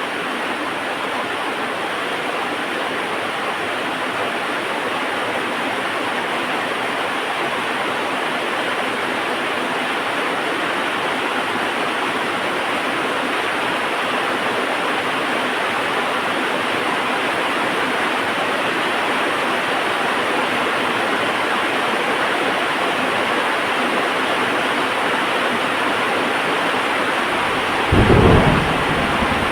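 Heavy rain falling steadily, with a short low rumble of thunder near the end.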